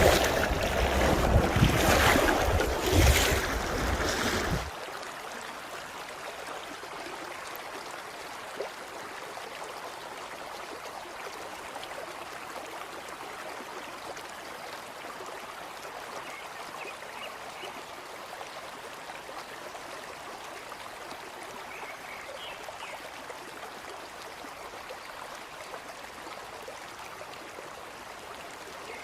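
Wind buffeting the microphone in gusts for the first few seconds, cutting off suddenly about five seconds in. After that, the steady rush of a flowing river.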